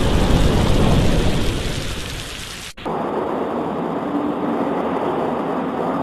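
Rain with a thunder rumble that dies away over the first two seconds or so; a little under three seconds in, the sound cuts out for an instant and then changes abruptly to steady rain.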